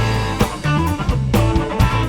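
Instrumental break of a rock song: guitar playing over a drum kit keeping a steady beat.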